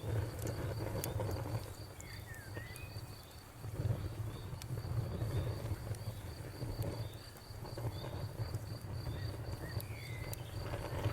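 Campfire crackling, with scattered sharp pops over a low surging background. Over it an insect chirps steadily about four times a second, and a bird gives brief chirps about two seconds in and again near the end.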